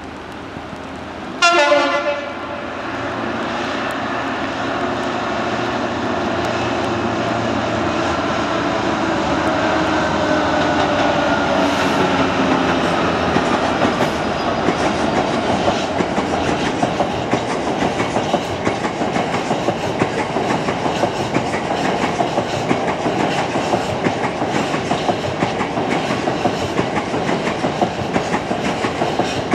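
Class 66 diesel freight locomotive sounds a short horn blast about a second and a half in. It then passes with its two-stroke EMD V12 diesel running, the engine note dropping in pitch as it goes by. A long rake of hopper wagons follows, clattering rhythmically over the rail joints.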